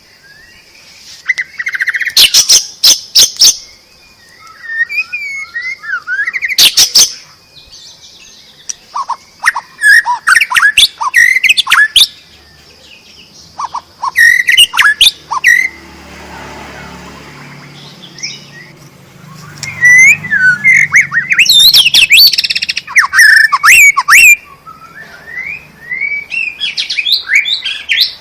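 White-rumped shama (murai batu) singing in loud phrases of quick varied whistles and harsh rattling notes, with short pauses between phrases. A steady faint high hum lies underneath for the first half.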